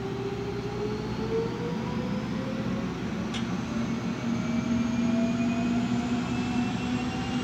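Jetfoil's gas turbines whining as the boat pulls away, their pitch rising slowly and steadily as it gathers speed, over a steady low hum.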